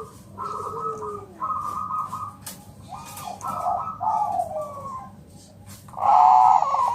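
Bangkok-type zebra dove (perkutut) cooing in a run of quick, trilled phrases with short gaps between them. A louder, fuller phrase comes near the end.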